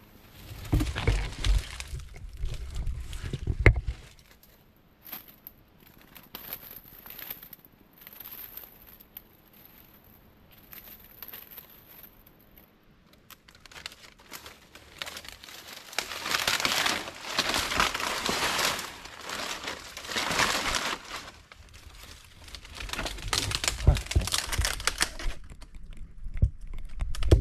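Dead leaves and brush rustling and crackling as they are pushed through and disturbed. It comes in three bouts, near the start, in the middle and near the end, with some low thuds among them.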